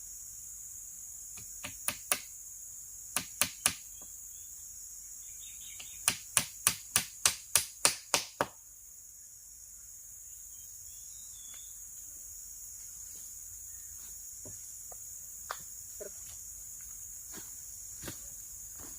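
Steady high-pitched insect chorus of forest crickets or cicadas. Over it come runs of sharp clicks or taps: three, then three more, then about nine quick even ones about three a second, after which only a few faint clicks follow.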